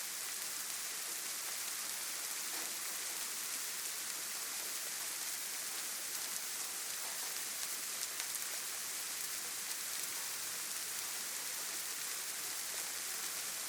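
Steady rain falling, an even hiss strongest in the high end with faint scattered drop ticks.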